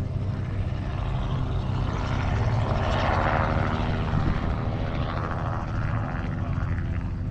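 An aircraft engine passing overhead, swelling to a peak about three seconds in and then fading, over a steady low engine hum.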